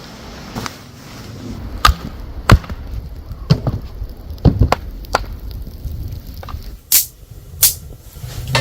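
A series of sharp, irregular knocks and clacks, about nine of them, with the two sharpest near the end, over a low rumble.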